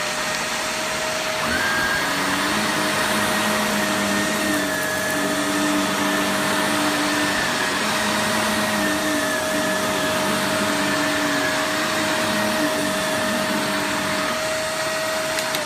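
Shark Navigator Lift-Away Deluxe (NV360) upright vacuum running on a rug: a loud, steady motor whine over a rush of suction, with lower tones coming and going as it is pushed back and forth. Near the end it is switched off and the whine starts to fall.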